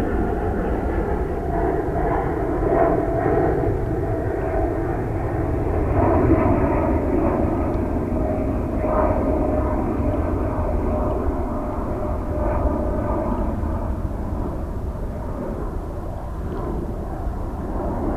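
Heavy jet airliner's engines at takeoff thrust: a steady rumble with a faint whine that sinks slightly in pitch, easing a little near the end.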